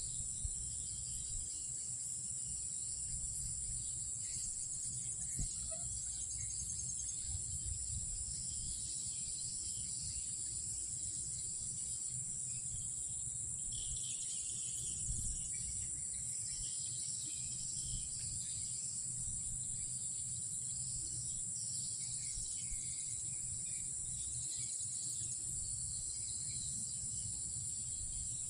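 Night insects chirring, a continuous high-pitched drone, with scattered fainter chirps and calls over it and a low rumble underneath.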